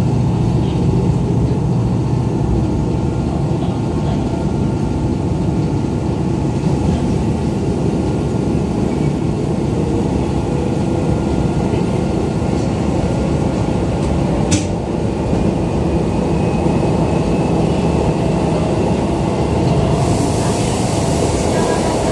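Keisei 3500 series electric commuter train heard from inside the car while running: a steady rumble of wheels and running gear with faint steady tones. A single sharp click comes about two-thirds of the way through, and a brighter hiss joins near the end.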